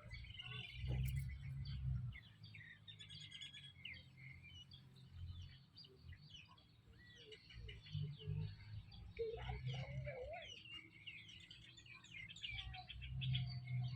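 Baby chicks peeping in many quick, high chirps, with low rumbling bumps about a second in and near the end.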